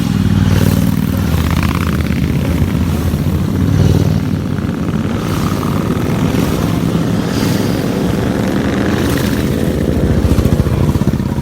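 Motorcycle engines running, a loud steady low rumble.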